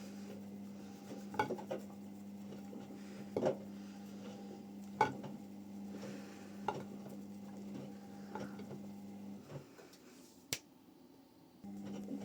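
Front-loading washing machine running a wash cycle: a steady motor hum while the drum turns, with a clink or knock from the tumbling load about every second and a half. The motor stops for a couple of seconds near the end, with one sharp click in the pause, then starts again.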